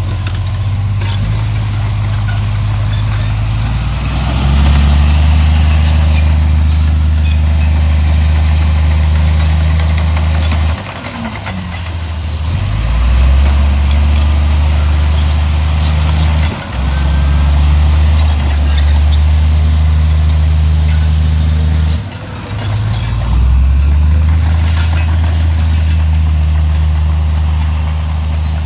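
Bulldozer's diesel engine working hard under load, with a metallic clatter over it. The engine note dips briefly three times and then picks up again.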